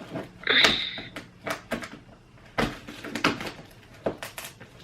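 Cardboard shipping box being handled: a series of irregular knocks and taps, with a brief higher-pitched scrape about half a second in.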